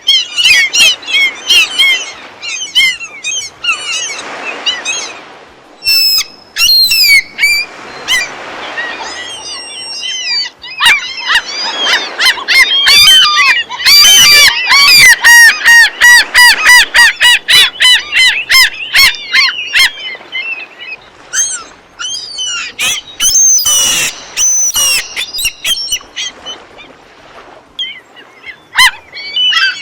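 A flock of gulls calling: many harsh, repeated squawks that build into a dense, overlapping chorus in the middle, then thin out to scattered calls.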